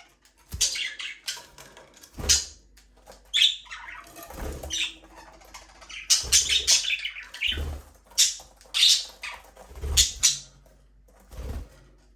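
Budgerigars chirping and squawking in quick, repeated bursts, with several low thumps mixed in.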